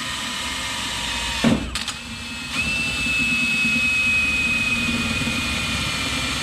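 Drill driving a large hole saw, cutting a hole for an exhaust stack: a steady motor whine, broken by a couple of sharp knocks about a second and a half in, then running on with a high steady whine.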